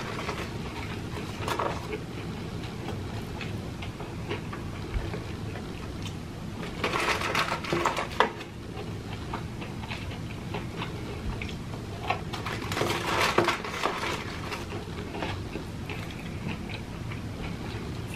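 A person chewing fried chicken nuggets with his mouth close to the microphone: wet smacking and crunching, in two louder bouts about seven and thirteen seconds in, over a steady low hum.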